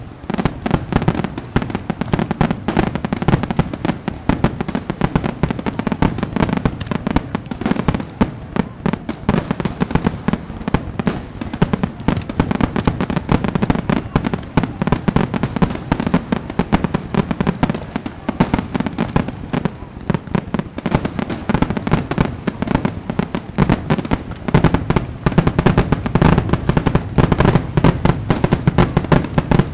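Fireworks exploding in a dense, continuous barrage of overlapping bangs and crackles, growing somewhat louder in the last few seconds.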